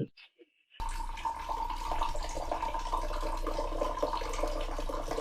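Steady rushing of running water, like a tap, starting abruptly about a second in, with a low hum underneath.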